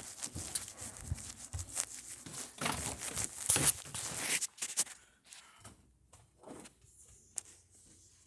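Irregular rustling, scraping and knocking of objects being handled, busier for the first few seconds and then trailing off to a few scattered clicks.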